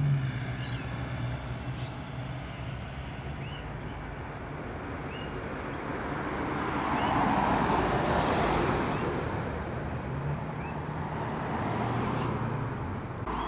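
Car engines running at low speed, a steady low rumble, with one car growing louder as it drives past about seven to nine seconds in.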